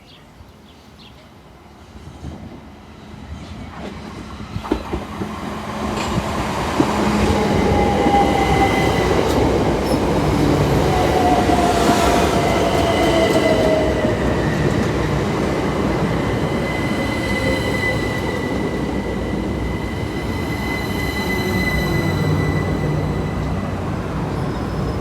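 Southeastern Class 377 Electrostar electric multiple unit, two units coupled, arriving and braking into the platform. It builds from a distant rumble to a loud close run with wheel clicks. A whine falls in pitch as the train slows, and a high, steady squeal runs from the braking to near the end.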